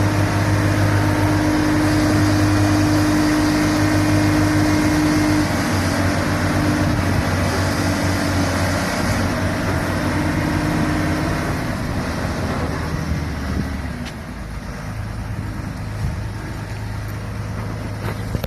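An engine runs steadily with a low, even drone. Its note shifts slightly partway through and eases a little near the end.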